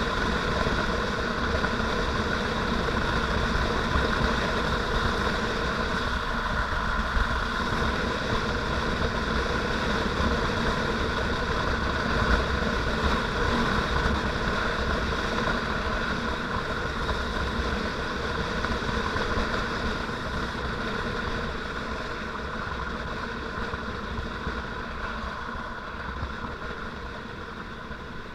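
Motorcycle engine running steadily under way, an even engine note with road and wind noise beneath it, growing gradually quieter over the last third.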